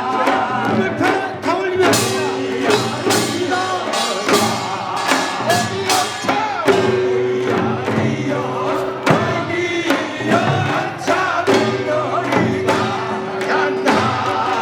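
Korean pungmul band playing a sorigut: a voice sings long held notes over a steady beat of drums and metal gongs.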